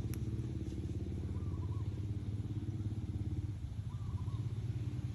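A small engine running steadily with a fast, even pulsing, dropping away at the very end. There is a sharp click just after the start and faint short chirps twice.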